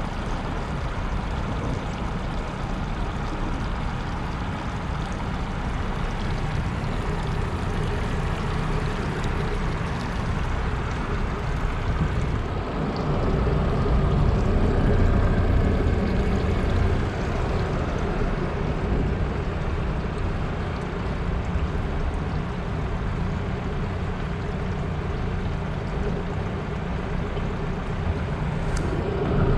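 Yamaha Luxia boat's engine running steadily, getting somewhat louder for a few seconds about halfway through before settling back.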